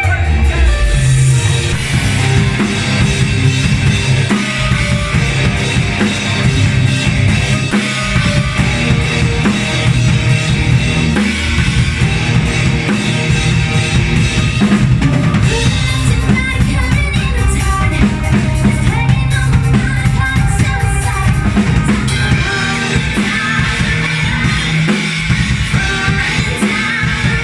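Live band playing a song, a drum kit with bass drum and snare keeping a steady beat under the other instruments.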